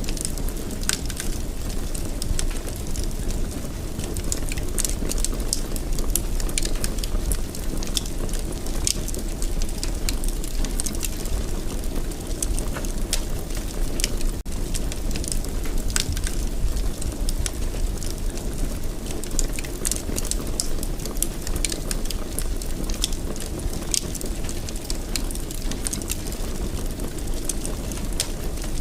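Wood fire crackling in a fireplace: a steady low rumble of flame with frequent sharp pops and snaps, a few each second.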